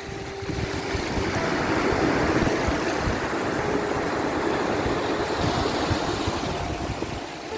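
Sea waves washing in, a steady rush of surf that swells and eases, with a few faint held notes of soft music beneath.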